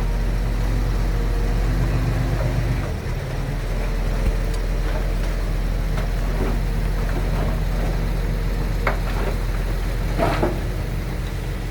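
Heavy diesel engine of earthmoving machinery running steadily, its note shifting about three seconds in, with a few short metallic scrapes or clanks, the loudest near the end.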